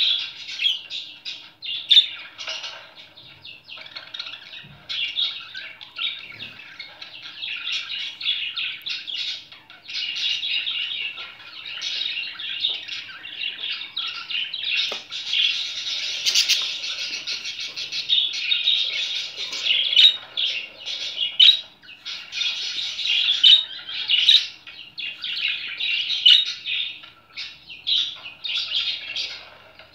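Budgerigar chattering and warbling nonstop, a fast run of chirps, clicks and short squawks with only brief pauses.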